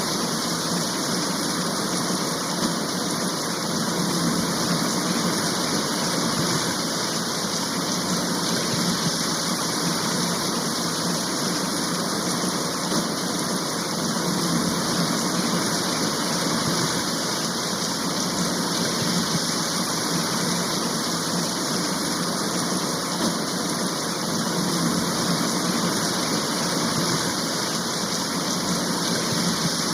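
Steady downpour of a rain shower, an even unbroken hiss of falling rain.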